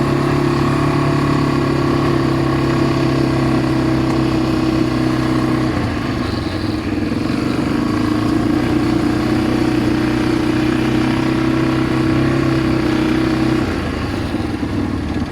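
ATV engine running steadily under throttle, easing off briefly about six seconds in, picking up again, and easing off near the end.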